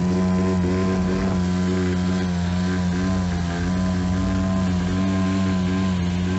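An engine running steadily at a constant speed, with an even hum and little change in pitch.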